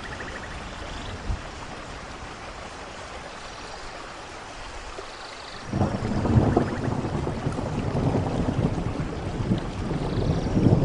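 Steady rain falling, then just over halfway through a deep rumble of thunder rolls in suddenly and keeps building.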